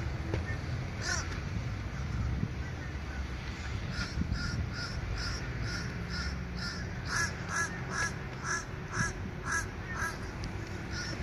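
A bird calling outdoors, a quick series of short, evenly spaced calls about two a second. The calls start about four seconds in and are loudest near the end. They sit over a low steady rumble.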